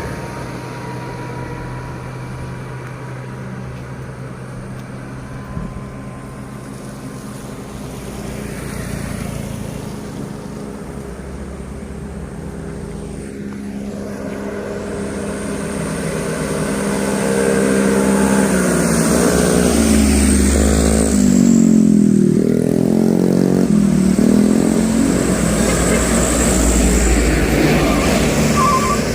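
Heavy diesel trucks labouring slowly up a steep hill, their engines running steadily and then growing much louder about halfway through as one passes close, its engine pitch rising and falling. A few short beeps sound at the very end.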